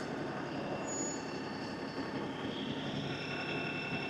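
LS XR315 compact tractor's diesel engine running steadily as the tractor drives in four-wheel drive, with a faint high whine coming in about three seconds in.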